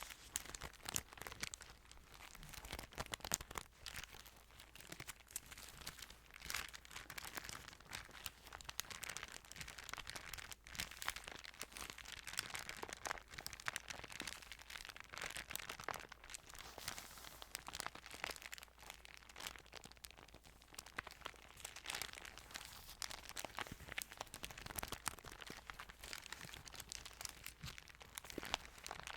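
Thin Bible pages rustling and crinkling close to the microphone, a continuous run of small crackles and papery swishes.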